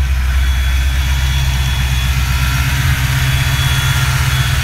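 1988 Ford Mustang GT's 5.0-litre V8 idling steadily.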